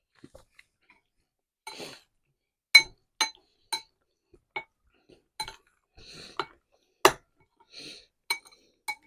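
Metal cutlery clinking and scraping against a dish: about a dozen sharp taps that each ring at the same pitch, with short scrapes in between.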